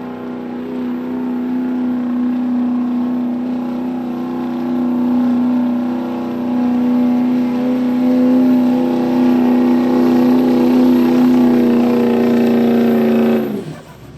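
Street-diesel pickup truck's engine held at high, steady revs under full load while pulling the weight-transfer sled, growing louder, then dropping away sharply near the end.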